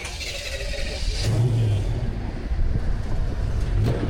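Car engine running close by, getting louder about a second in, with a steady low hum. A hiss sounds during the first second.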